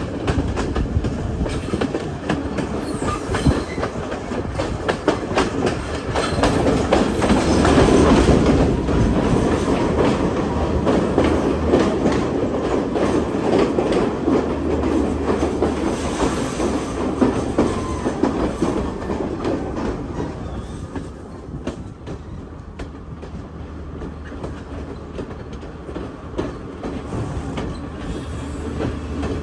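Train running on the rails, its wheels clattering over the rail joints with a rapid run of clicks. The sound grows louder a quarter of the way in and quietens in the last third.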